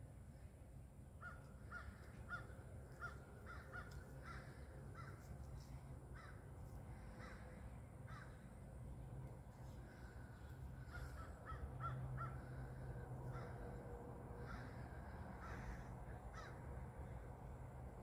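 Birds calling from the trees: short notes repeated about three times a second, in one run starting about a second in and another about ten seconds in. The calls are faint over a low steady rumble.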